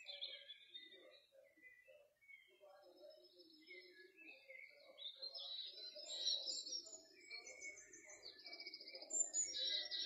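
Birds chirping and singing: many short high calls and trills overlapping, growing busier and louder in the second half.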